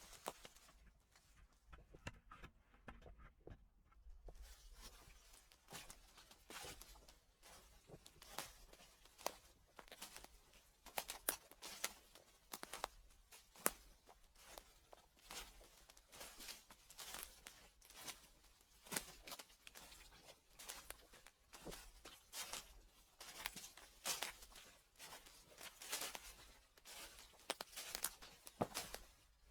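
Footsteps crunching and crackling through dry fallen leaves, an irregular run of crisp rustles, quieter for a few seconds near the start.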